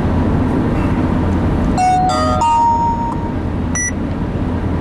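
Steady road and engine noise inside a moving vehicle's cab. About two seconds in, a short run of electronic beeps in stepped pitches ends on one longer held tone, and a brief high chirp follows about a second later.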